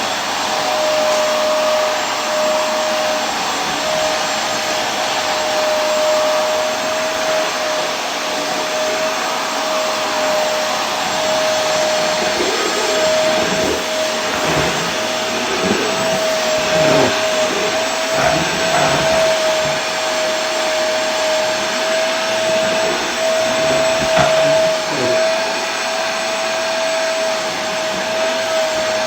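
Vacuum cleaner running continuously: an even rushing noise with a steady whine.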